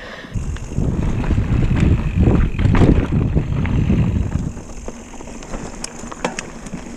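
Wind buffeting the microphone and a low rumble as a mountain bike rides the trail at speed, loudest for the first few seconds, then easing into quieter rattling with a few sharp clicks near the end.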